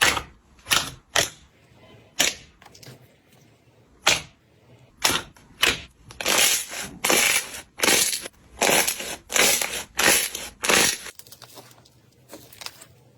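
Slime being pressed and squeezed by hand: a scatter of sharp wet pops, then about nine quick squelches in a row, ending in faint crackling.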